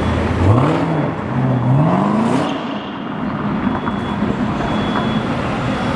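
Chevrolet Camaro ZL1's supercharged V8 accelerating hard. The engine note climbs, drops back at a gear change about a second in, then climbs again through the next gear before settling into a steady noise as the car moves off.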